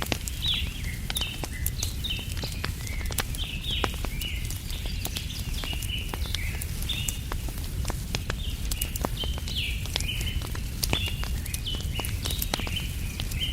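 Campfire crackling with scattered sharp pops over a steady low rumble, while a bird calls over and over with short high notes, about two a second.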